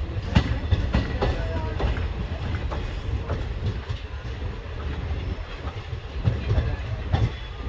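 Passenger train coach running over the track, heard from its open doorway: a steady wheel rumble with irregular clicks and clacks as the wheels cross rail joints, and a few short squeaks.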